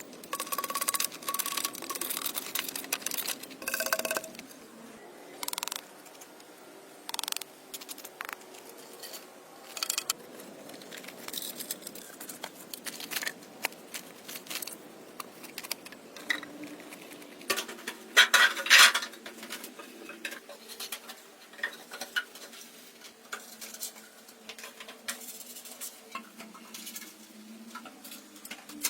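Irregular clinks and knocks of hard objects striking each other, with a denser run of louder knocks about eighteen seconds in.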